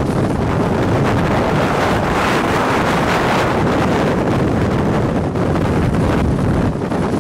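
Strong wind blowing hard across the microphone, a loud, steady rushing noise.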